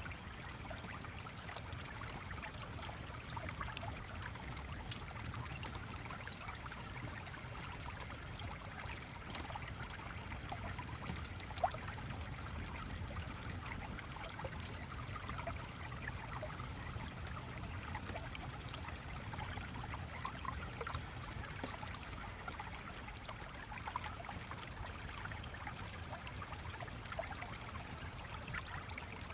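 Gently flowing stream, babbling and trickling steadily, with one sharp click about twelve seconds in.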